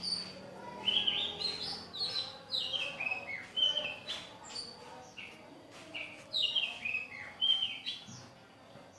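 Caged songbird singing: two runs of clear, whistled notes, each stepping down in pitch over a couple of seconds, with scattered sharp clicks in between.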